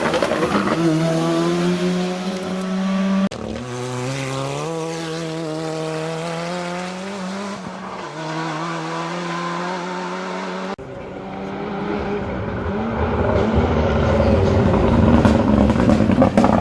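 Ford Sierra Cosworth rally car's turbocharged four-cylinder engine under hard acceleration, its pitch climbing again and again as it pulls through the gears. The sound changes abruptly twice, about three and eleven seconds in, and is rougher and noisier in the last few seconds.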